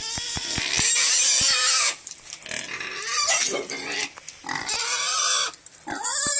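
Pigs screaming: four long, high-pitched squeals, one after another with short gaps between them.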